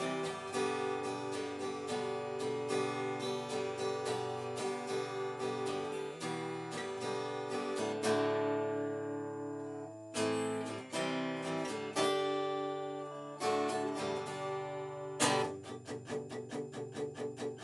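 Acoustic guitar strummed in an instrumental break, without singing. Midway a few chords are struck and left to ring, and near the end a quicker, even strumming pattern starts.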